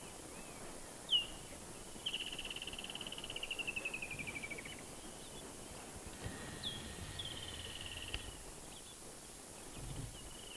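Birds calling in the bush: a short downward whistle, then a rapid trill falling slightly in pitch for about three seconds, and a second, shorter burst of chirps and trill about six seconds in. A faint steady whine runs beneath the second burst.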